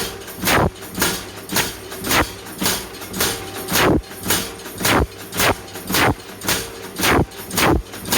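Hammer blows on hot wrought iron over an anvil, struck steadily about twice a second, each with a short metallic ring.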